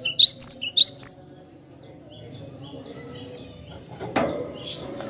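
Cinereous tit (glatik batu) singing: a loud, rapid run of rising whistled notes, about four a second, that stops about a second in. Fainter repeated V-shaped chirps follow, with a brief thump near the end.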